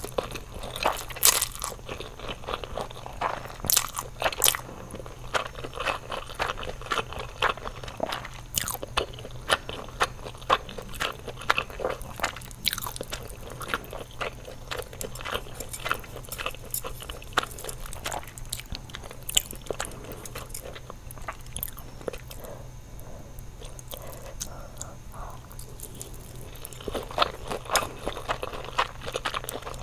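Close-up eating sounds: crunchy food being bitten and chewed, with many sharp, irregular crunches and a quieter spell of chewing about three-quarters of the way through.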